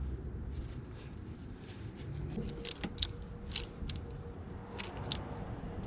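Scattered light metallic clicks and clinks of hand tools and 10mm bolts being fitted to a power steering pump's mounting, a few separate clicks in the second half.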